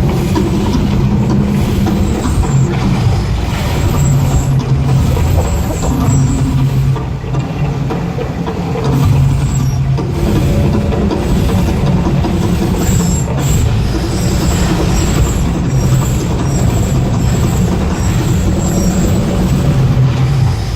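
Loud, continuous low rumble with hissing, the staged eruption effects of a volcano show.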